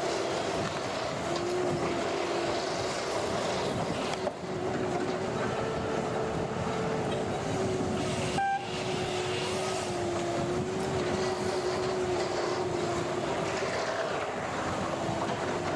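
A machine's engine running steadily under a dense mechanical noise, with a hum that drifts slightly in pitch. A short click about eight and a half seconds in.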